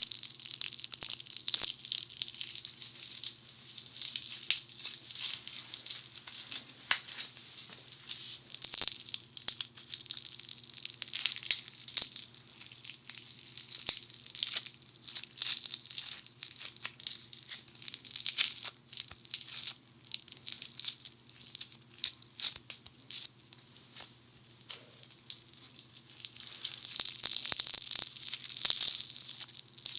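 Funny Foam squished and rubbed on the ears of a binaural dummy-head microphone: dense, fine crackling and popping close to the mics, thickest near the end. A faint steady hum lies underneath.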